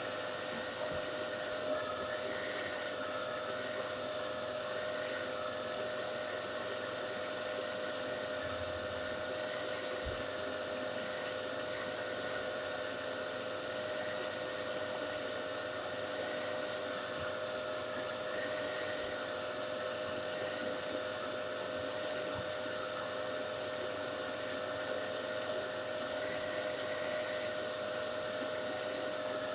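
Dyson DC07 bagless upright vacuum cleaner running steadily, a constant motor whine over a rush of air.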